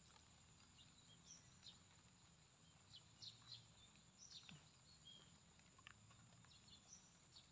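Near silence, with a few faint, short bird chirps scattered through.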